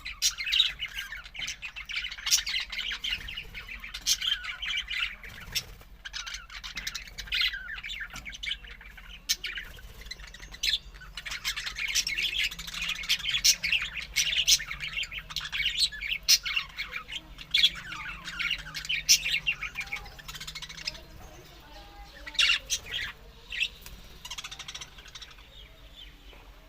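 Budgerigars chattering and warbling, with sharp chirps and squawks; the busy chatter thins out after about twenty seconds, leaving a few loud calls near the end.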